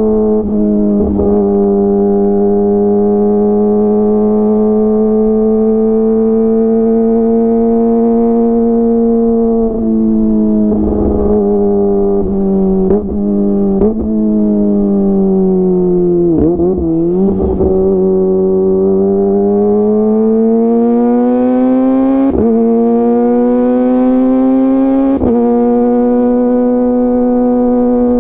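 Kawasaki ZX-25R's 250 cc inline-four engine running through a DX Generation GPR full-system exhaust at steady riding revs, giving a smooth, even note. The note breaks off briefly several times. About two-thirds of the way through the revs fall away, then climb steadily again.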